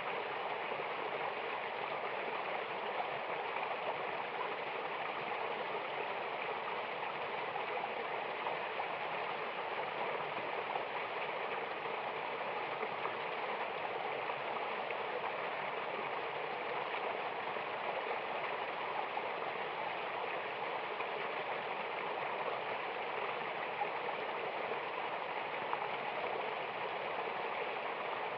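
Mountain waterfall water rushing in a steady, even flow, with no changes or separate splashes standing out.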